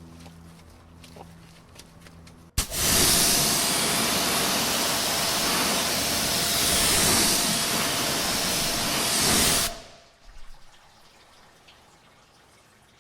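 Pressure washer spraying a hard water jet: the hiss starts suddenly about two and a half seconds in, runs steadily for about seven seconds and cuts off abruptly.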